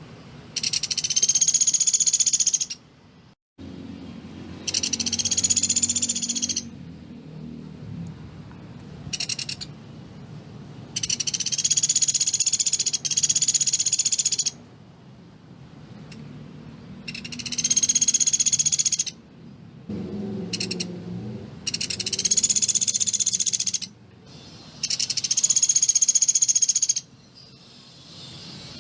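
Pelatuk beras woodpecker calling in a run of high-pitched, very fast rattling trills, each burst about two seconds long with short pauses between, some seven or eight times over.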